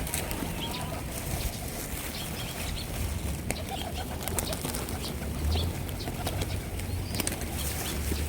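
A large flock of hungry birds scrambling for scattered food: wings flapping and fluttering, soft calls, and many short sharp clicks, over a steady low rumble.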